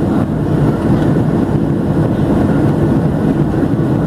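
Steady low rumble inside the cabin of a Boeing 737-700, from its CFM56 jet engines and the air rushing past the fuselage.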